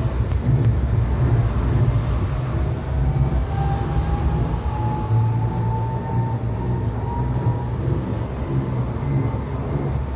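Electric rack-railway railcar running downhill, heard from the driver's cab: a steady low rumble from the running gear, with a faint whine that rises in pitch partway through.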